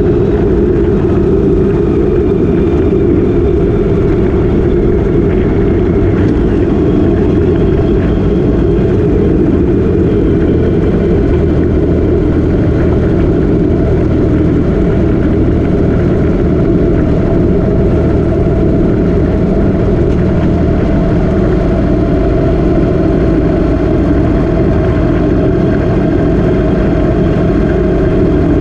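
Motorcycle engine running at a steady cruise while riding, under heavy wind rush on the microphone, with small drifts in engine pitch.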